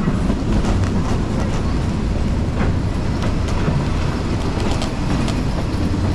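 Train rolling along the track: a steady low rumble with scattered clicks from the wheels on the rails.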